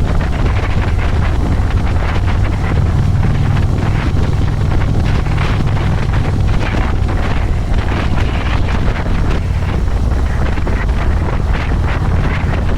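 Wind rushing and buffeting over the microphone while riding a Harley-Davidson Electra Glide motorcycle, over the steady low rumble of its V-twin engine.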